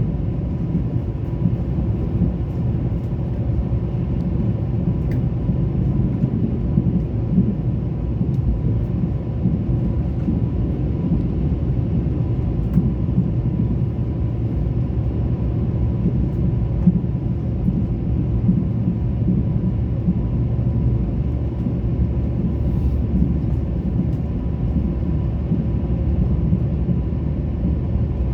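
Mugunghwa-ho passenger train running at a steady pace: a continuous low rumble with a faint steady whine above it.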